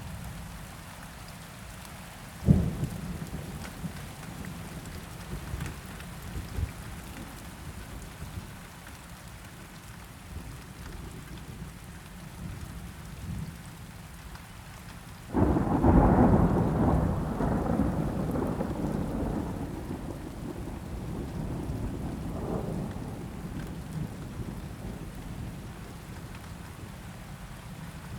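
Steady rain with thunder. A sharp crack comes about two and a half seconds in. About fifteen seconds in a loud thunderclap breaks suddenly and rolls on, fading over several seconds, with a smaller swell of rumble a few seconds later.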